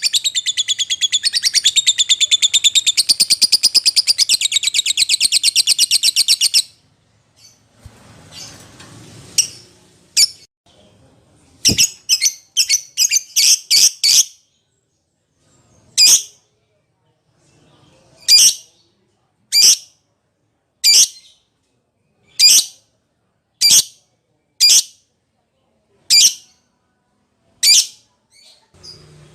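Lovebird chattering in a fast, continuous high trill that cuts off abruptly after about six seconds. After a short pause it gives a quick run of sharp high calls, then single sharp calls about one every second and a half.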